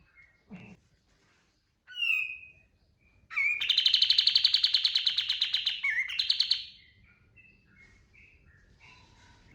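Kapas tembak bulbul singing: a few short chirps, then a loud, very fast trilled burst, the 'tembakan', lasting about three seconds from around three and a half seconds in. Soft scattered chirps follow.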